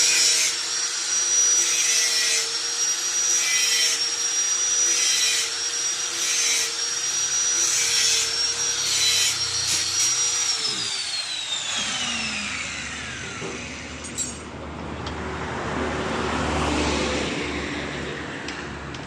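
An electric power tool's motor running at a steady high whine, with a scraping, rubbing noise coming and going about every second and a half. About ten seconds in it is switched off and spins down, the pitch falling away over a couple of seconds.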